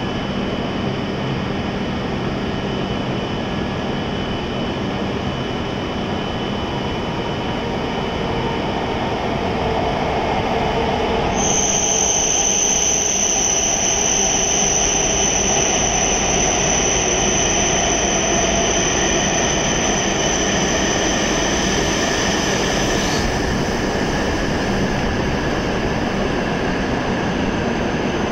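E7 series Shinkansen train pulling into the platform, its running noise growing louder about ten seconds in as it arrives and slows. A high steady whine comes in suddenly about eleven seconds in and carries on more faintly after about twenty-three seconds.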